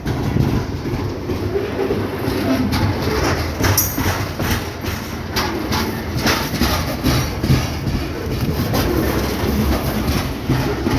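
Freight train wagons rolling past, with a steady low rumble and repeated clacking of wheels over rail joints. A brief high wheel squeal comes about four seconds in.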